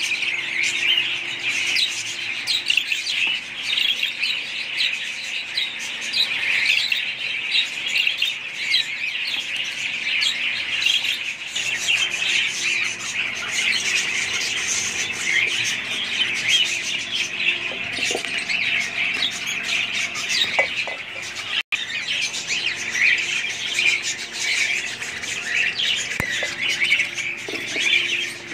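Several budgerigars chirping and chattering continuously, many quick calls overlapping. About two-thirds of the way through, the sound cuts out for a split second.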